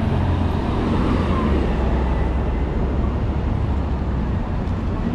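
City street traffic: a steady low rumble of passing vehicle engines and tyre noise.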